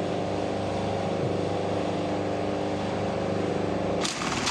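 Brother 917B industrial button-sewing machine's motor humming steadily, with a brief burst of clatter about four seconds in.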